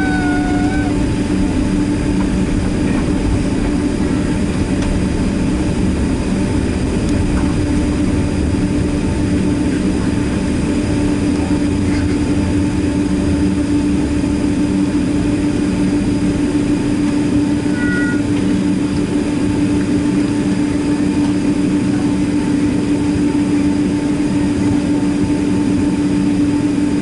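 Steady cabin noise inside a Boeing 767-300ER with its engines running: a constant hum over a rumble and hiss. About two-thirds of the way through, a brief two-note chime sounds, high then low.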